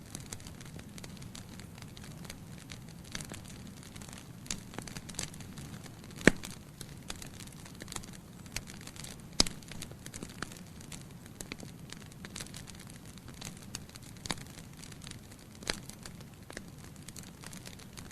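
Logs burning in a fireplace: a steady low rush of flame with frequent sharp crackles and pops, two louder pops about six and nine seconds in.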